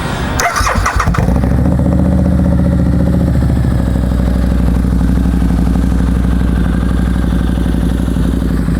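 A 2009 Harley-Davidson V-Rod Muscle's liquid-cooled 1250cc V-twin cranking on the starter and catching about a second in, then idling steadily through an aftermarket 2-into-1 header exhaust. It idles with a deep sound and no rattling.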